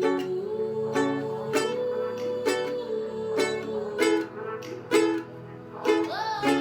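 Ukulele strummed with the thumb through the chord progression F-sharp minor, D, E and C-sharp minor, about two strums a second, with steady held notes underneath.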